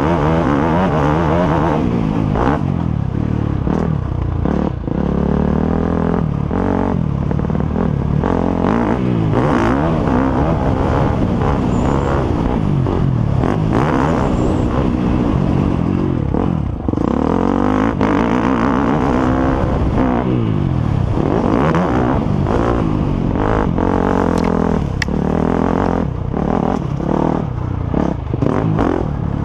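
Several motocross bikes' engines revving hard and easing off, overlapping, their pitch rising and falling constantly with frequent short dips.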